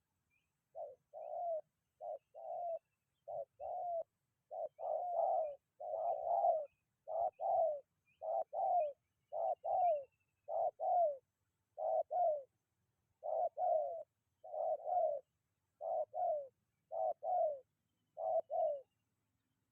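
Spotted dove (tekukur) cooing: a long run of short two-note coos, about one a second, steady in pitch. Faint high chirps of small birds sound behind it.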